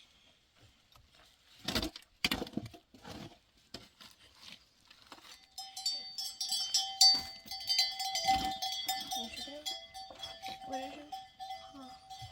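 Livestock bells on a herd ringing and clanking, a dense jangle with held ringing tones that sets in about halfway through, after a few sharp knocks near the start.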